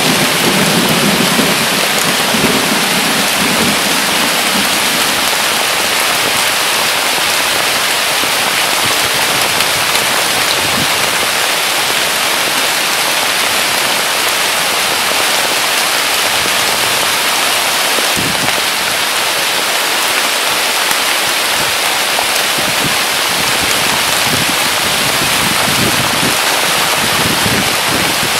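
Heavy rain pouring down in a dense, steady hiss. The tail of a thunder rumble fades out in the first few seconds.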